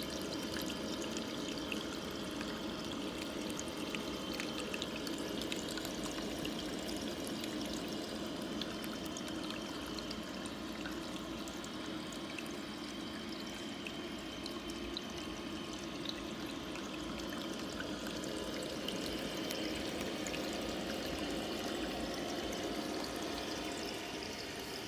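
Small waterfall in an aqua terrarium, water pouring and trickling steadily with many small splashes.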